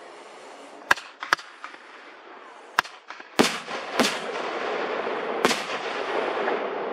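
Fireworks display: about six sharp bangs of shells launching and bursting, spread over the few seconds, with a continuous noisy rush filling in from about halfway on.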